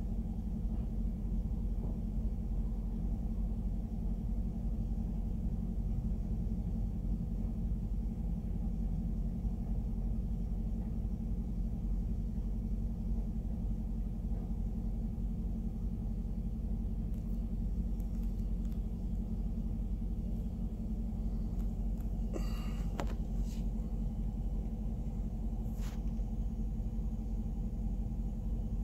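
Grain train of covered hopper cars rolling past, a steady low rumble of wheels on rail, with a few brief sharp squeaks late on.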